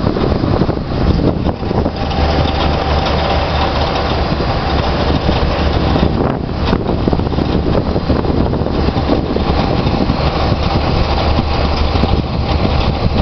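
Oil or gas drilling rig machinery running steadily, a loud continuous mechanical noise over a deep steady drone.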